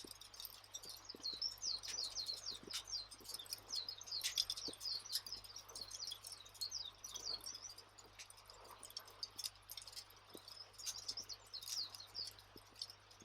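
Wood fire crackling: a dense, steady run of small high-pitched snaps and pops with occasional sharper cracks.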